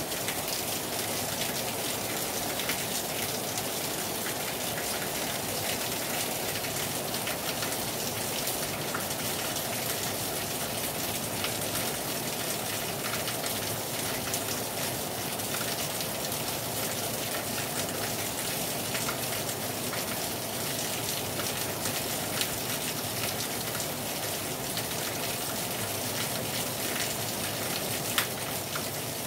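Heavy rain falling steadily on a terrace, a dense, even hiss dotted with many close drop strikes, with one sharper tick near the end.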